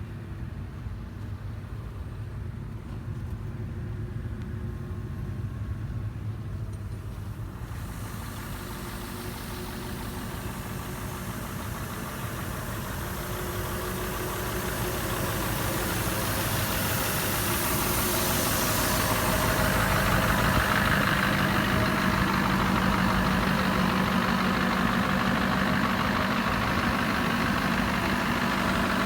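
Scania R 500 truck's V8 diesel engine idling steadily, growing louder past the middle as a hiss joins in.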